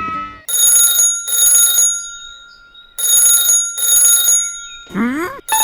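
Alarm-clock-style ringing sound effect: two double rings about two and a half seconds apart, each ring a bright, steady high tone. Near the end, a quick rising, wobbling glide like a cartoon boing.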